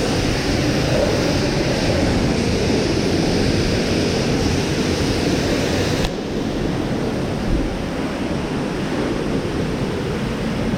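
Pressure washer spraying: a loud, steady hiss of the water jet over a lower running rumble. The spray cuts off suddenly about six seconds in, and the lower rumble carries on.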